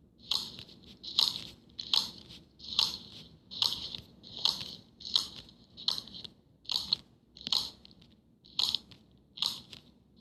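Slime being squeezed and pressed by hand, giving a crackly crunching pop in a steady rhythm, a little more than once a second, about a dozen times.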